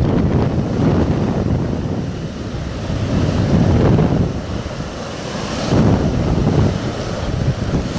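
Hurricane wind gusting and buffeting the microphone: a loud low rushing that surges and eases every second or two.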